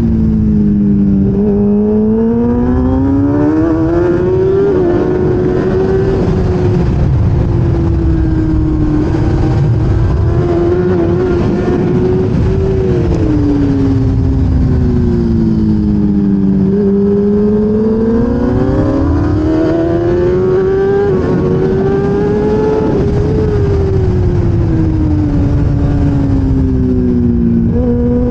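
1000cc racing motorcycle's engine at race speed, its pitch falling under braking and climbing under acceleration several times, with small jumps at gear changes. A steady rush of wind noise runs underneath.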